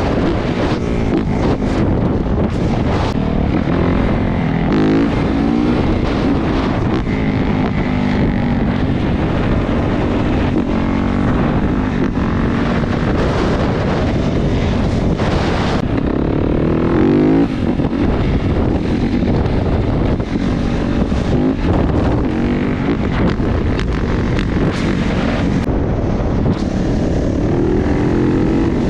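Motorcycle engine running under way, its pitch rising several times as it is revved, with steady wind noise on the microphone.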